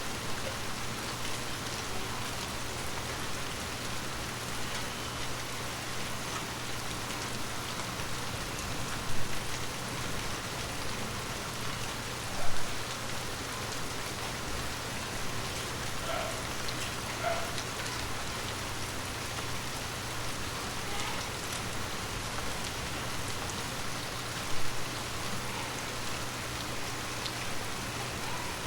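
Steady rain falling on forest leaves, an even hiss of many drops, with three louder sudden taps about nine, twelve and twenty-five seconds in.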